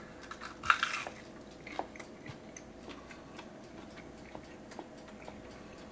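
A person biting into a deep-fried taco, with one louder crunch about a second in, then chewing it with faint wet clicks and smacks.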